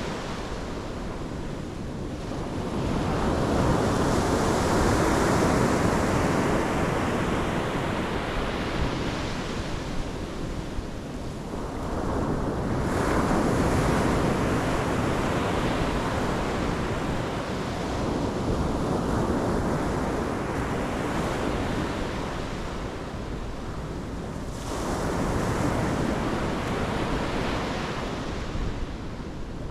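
Pacific Ocean surf breaking on the shore, the wash swelling and ebbing with each wave, about three big surges, with some wind on the microphone.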